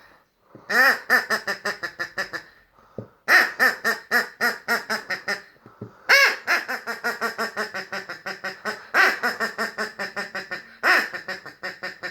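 Laughing toy rubber duck giving quacking laughter: bursts of rapid 'ha-ha-ha' pulses, each starting loud and tailing off, repeated about five times with short pauses between.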